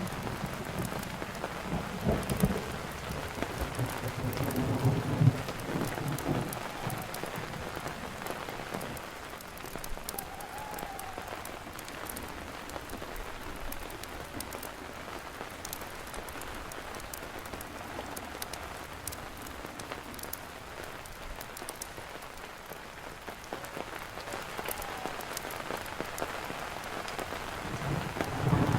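Steady rain, with thunder rumbling low through the first several seconds and then dying away. Scattered sharp crackles of a campfire burning in the rain.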